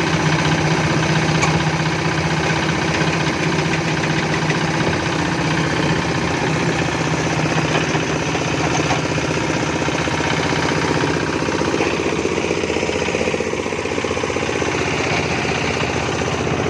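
Engine of a construction machine running steadily at an even speed.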